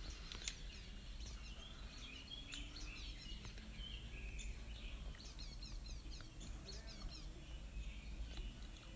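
Faint birds chirping and twittering, many short quick calls, over a low steady hum, with a single sharp click about half a second in.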